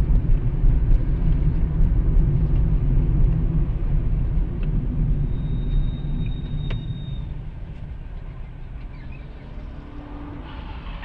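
Car driving, heard from inside the cabin: a steady low road and engine rumble that eases off about two-thirds of the way through. A thin high tone sounds for about two seconds around the middle.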